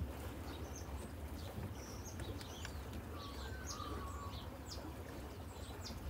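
Birds chirping, many short high calls scattered throughout, over a steady low rumble.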